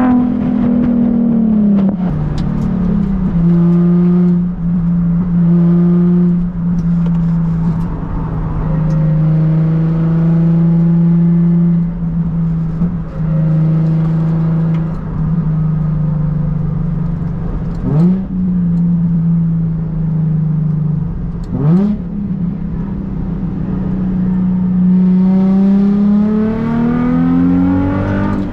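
Nissan 350Z's 3.5-litre V6 running through an ISR Performance aftermarket exhaust. The note drops as the revs fall near the start, holds steady for a long stretch with two brief quick rises in pitch, then climbs again as the revs rise near the end.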